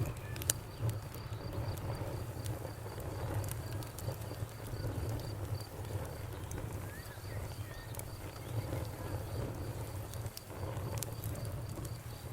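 Campfire burning with a steady low rumble and scattered sharp crackles and pops, a few close together about half a second in and again near the end. A faint insect chirps steadily in the background, about three chirps a second.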